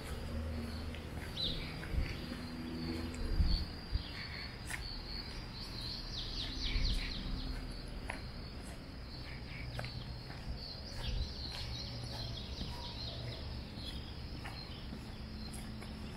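Birds chirping now and then, with a busy cluster of short, falling calls about six seconds in and more around eleven to thirteen seconds, over a low steady outdoor rumble.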